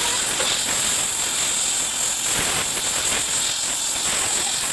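Gas cutting torch hissing steadily with a high, even hiss.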